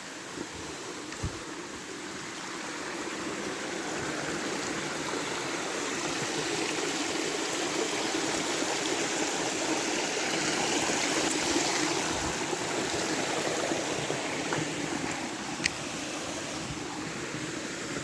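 Running stream water: a steady rush that grows louder over the first several seconds, is loudest about two-thirds of the way through, then eases a little.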